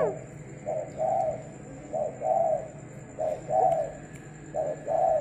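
Spotted dove cooing over and over: four phrases, each a short note followed by a longer one, about one every 1.3 seconds.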